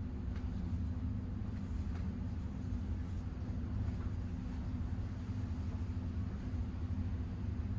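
Steady low drone of a river cruise ship's engines running under way, even and unbroken.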